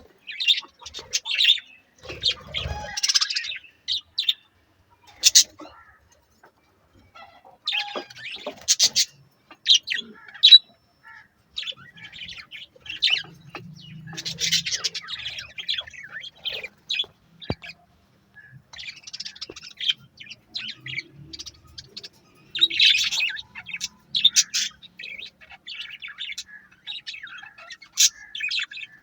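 Budgerigars chirping and chattering in bursts of short, high chirps with brief pauses between them.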